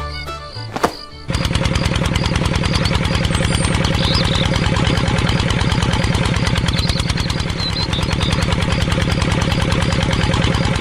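Small tractor engine running with a rapid, steady chugging, starting about a second in after a brief stretch of music.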